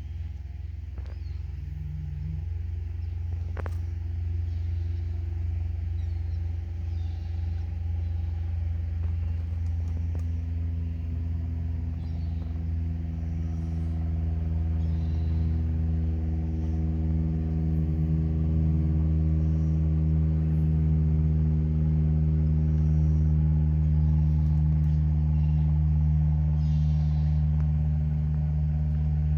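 A motor vehicle's engine running steadily, a low hum of constant pitch that grows gradually louder, with faint gull calls now and then above it.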